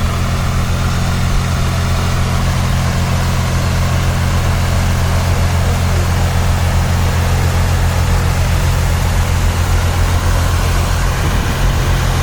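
Steady low drone of a boat engine running at an even speed, holding a constant pitch throughout.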